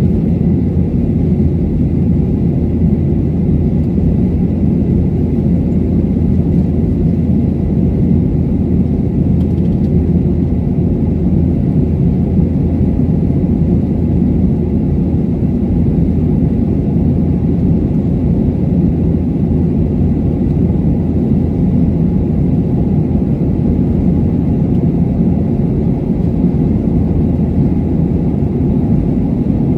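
Steady rumble of an airliner's engines and rushing air heard inside the passenger cabin in flight, with a faint steady high whine.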